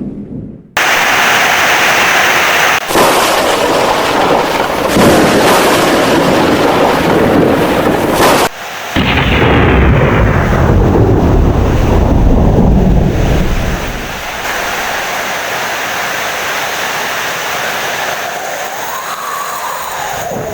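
Thunderstorm: heavy rain with loud rolling thunder, the rumble dying away about two-thirds of the way through and leaving a steadier rain hiss. The recording is spliced, with abrupt cuts near the start and about eight seconds in.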